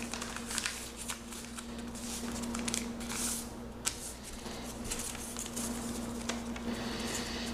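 A sheet of paper being folded and creased by hand, with irregular crisp rustles and small clicks. A steady low hum runs underneath.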